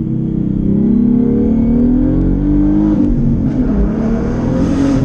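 Car engine accelerating, its note rising for a couple of seconds and dropping about three seconds in, then a rushing noise builds near the end.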